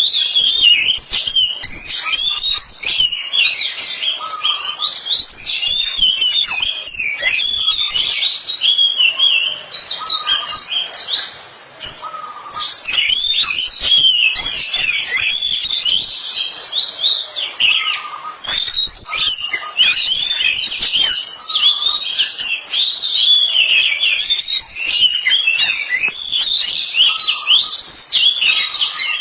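A pair of oriental magpie-robins (kacer) singing back and forth in a dense, unbroken stream of varied whistles and chirps, with one short lull about halfway through.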